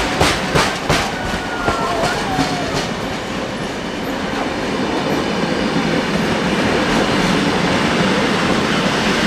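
Train wheels clicking in a quick, even rhythm over rail joints, with a faint wheel squeal in the first few seconds. This gives way to a steady rolling rumble that grows slightly louder toward the end.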